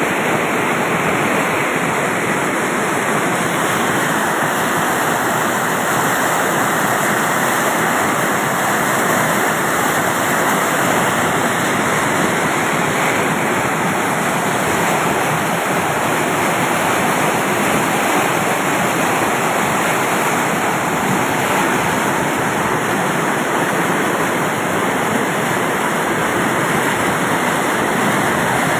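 Floodwater rushing, a loud, steady roar of water that never lets up.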